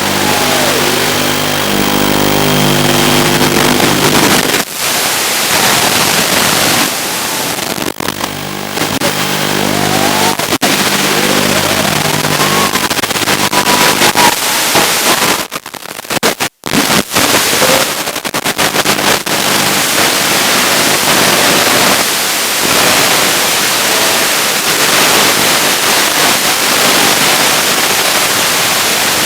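Brushless motors and tri-blade propellers of a small toothpick FPV quadcopter whining, the pitch rising and falling with the throttle, under a heavy layer of hiss from the analog video link. The whine is clearest in the first half; later the hiss dominates, with a brief cut-out about sixteen seconds in.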